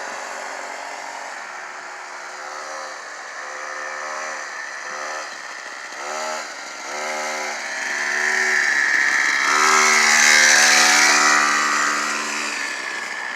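Small dirt bike engine running, its pitch rising and falling as the throttle is opened and eased off. It grows louder from about eight seconds in and eases off near the end.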